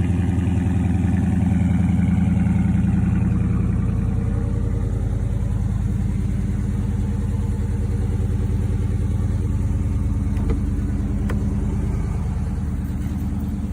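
2019 Dodge Charger R/T's 5.7-litre HEMI V8 idling steadily, purring evenly. Two faint clicks come near the end.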